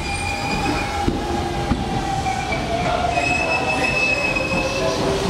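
Electric commuter train moving along the track, its wheels squealing in several high, shifting tones that are strongest in the second half. A few sharp clicks of wheels over rail joints come in the first two seconds.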